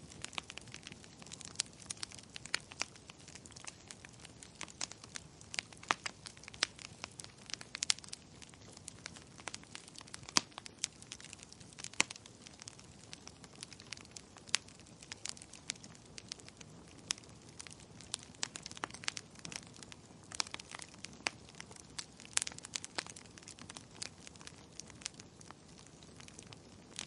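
Wood fire crackling: sharp, irregular pops and snaps over a soft low hiss.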